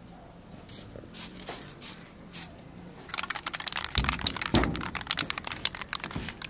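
A few short hissing bursts from an aerosol spray can of clear top coat, followed by a dense stretch of crackling and clicking with a couple of dull knocks.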